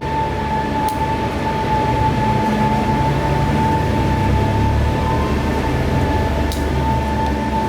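Electric motor running steadily, with a constant high whine over a low hum.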